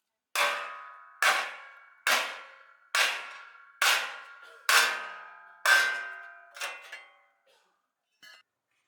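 Metal struck hard seven times at about one blow a second, each a ringing clang that dies away. A lighter eighth blow follows, then a faint tap near the end.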